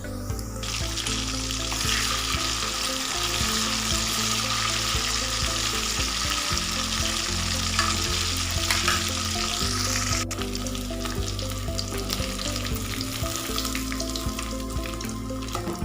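Battered chicken pakoda deep-frying in hot sunflower oil: a dense, steady sizzle that is loudest for the first ten seconds and then eases off, with a few light knocks in the pan.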